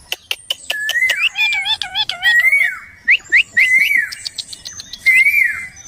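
Parrot calling: a few sharp clicks at first, then a run of short whistled calls that rise and fall in pitch, with quick upward-sweeping notes in the middle.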